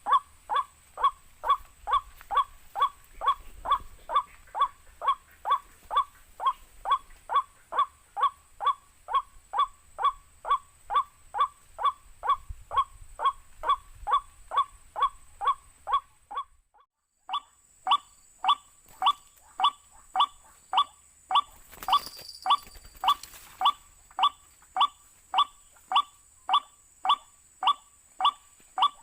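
White-breasted waterhen call played from a recording as a trapping lure: one short call repeated very evenly about twice a second. It cuts out for under a second a little past halfway, then resumes.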